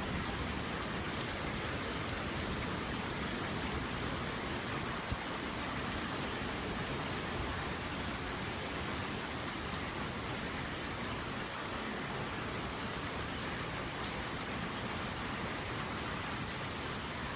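Steady rain falling during a thunderstorm at night, an even hiss of drops with no clear thunder.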